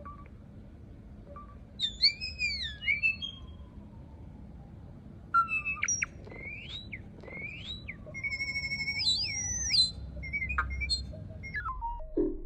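A songbird singing loud, clear whistled phrases that swoop up and down in pitch, several phrases in a row with short pauses between them.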